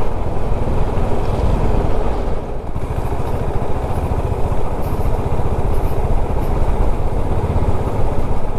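Motorcycle engine running while riding, a steady low rumble that dips briefly about two and a half seconds in.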